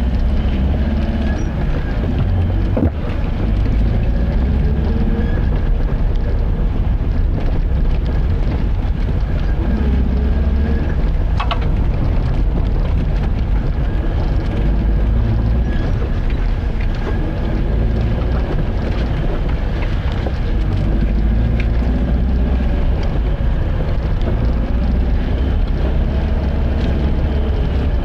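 Car driving at a steady speed: a continuous low engine and road rumble with a faint wavering whine.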